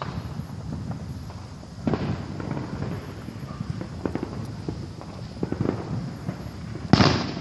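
Fireworks and firecrackers going off: scattered pops and cracks, a bang about two seconds in, a cluster of pops in the middle, and the loudest bang near the end.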